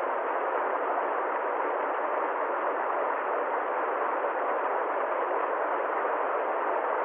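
Steady, unchanging rushing hiss with no rhythm, pitch or change in level.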